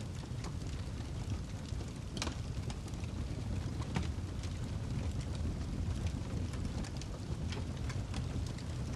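Wood fire burning in a fireplace: a steady low rumble with frequent small crackles and pops, two of them louder, about two seconds in and about four seconds in.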